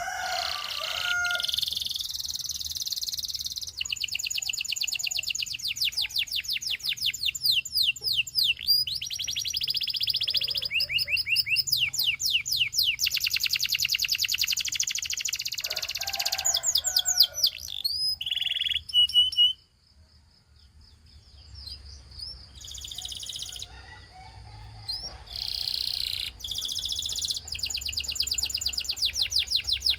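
Gloster canary singing long, high phrases of rapidly repeated notes and trills. The song breaks off briefly about twenty seconds in, then resumes with fast trills.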